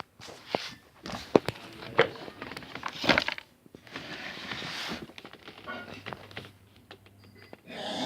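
Parts of an LG VK69401N vacuum cleaner and its packaging being handled: a string of sharp plastic clicks and knocks, the loudest between one and three seconds in, then a spell of rustling about halfway through. The vacuum's motor is not running.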